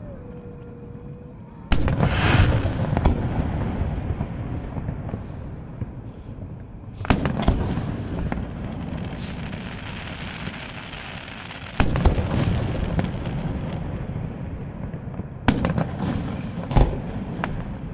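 Aerial fireworks shells bursting: five sudden booms a few seconds apart, each trailing off slowly, with the last two close together near the end.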